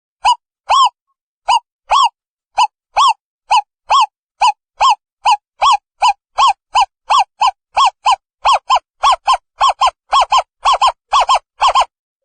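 Recorded owl calls: short hooting notes repeated over and over, speeding up from about two a second to about four a second near the end.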